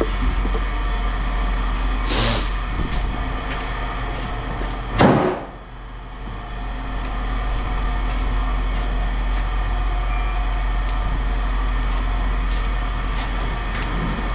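Heavy machinery running steadily, with a short hiss about two seconds in and a loud noisy burst about five seconds in, after which the sound drops away and builds back up.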